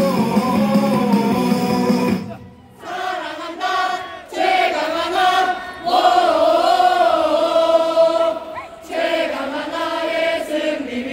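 Loudspeaker music with a heavy bass cuts off about two seconds in, and a stadium crowd of fans carries on singing the cheer song together, without the music.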